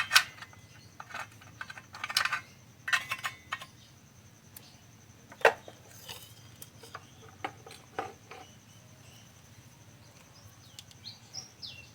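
Scattered light clicks and taps of small parts being handled: a transistor and multimeter test probes being picked up and set out for testing.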